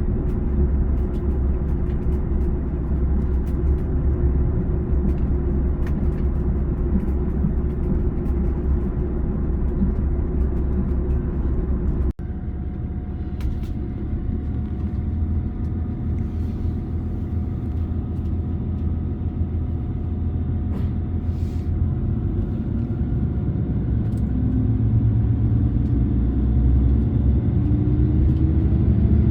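KiHa 281 series diesel railcar under way: a steady engine and running rumble. There is an abrupt break about twelve seconds in. Near the end the engine note rises in pitch.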